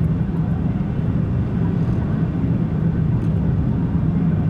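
Car driving at a steady speed, heard from inside the cabin: a steady low drone of engine and tyre noise.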